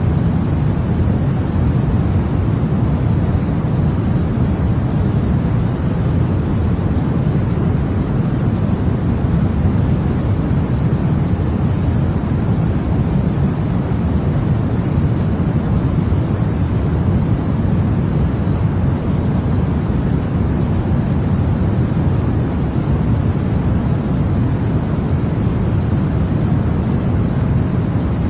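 Continuous white noise for baby sleep: a steady, even rushing hiss, heavier in the low end than the high, with no changes.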